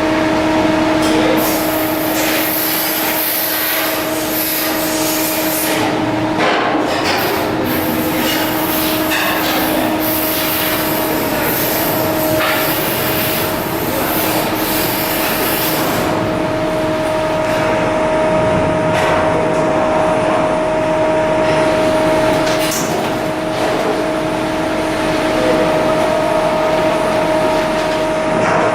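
Shipyard work noise: a steady machine hum under a loud hiss, with scattered knocks. The hiss drops away about halfway through.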